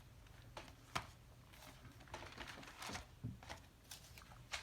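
Paper and cardstock being handled: scattered light taps and rustles, with a sharper click about a second in and another near the end.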